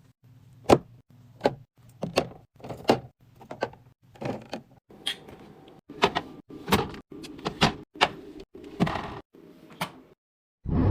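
Plastic food containers and fridge drawers being handled while food is arranged in a refrigerator: a run of irregular clicks, knocks and short slides, with a faint low hum underneath. Near the end the sounds stop and there is one loud dull thump.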